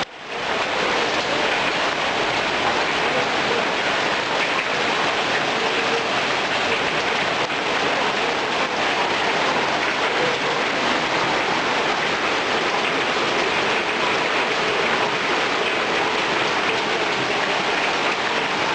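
Heavy rain pouring steadily, a dense, even hiss of a downpour.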